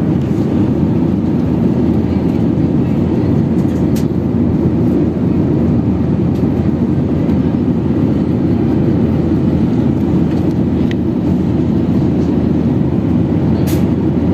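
Steady cabin noise inside a Boeing 737-800 airliner: an even, deep rush of engine and airflow noise that does not rise or fall. A couple of faint clicks come through from the cabin.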